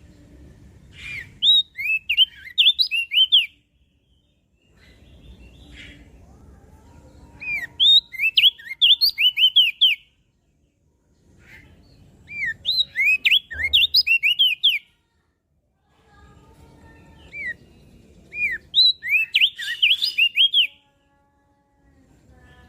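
Crested darkeye (opior jambul) singing: four phrases of quick, sharp high notes, each lasting two to three seconds, about six seconds apart.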